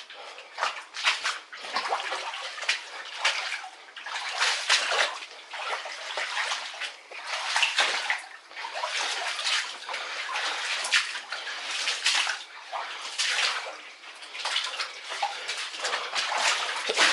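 Footsteps wading through shallow standing water: an irregular run of splashes and sloshes.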